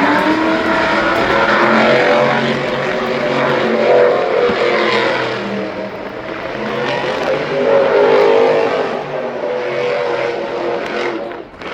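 Motorsport vehicle engine running hard and revving, its pitch rising and falling and getting louder twice as it works.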